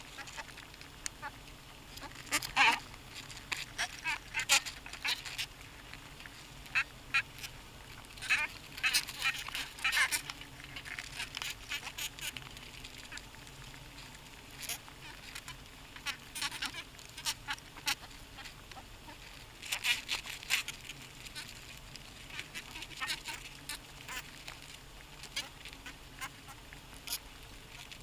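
Harsh honking bird calls in short clusters every few seconds, over a faint steady low hum.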